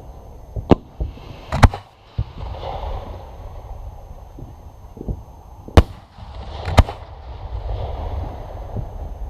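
Fireworks exploding: a series of sharp bangs at irregular intervals, with a crackling, rumbling wash between them.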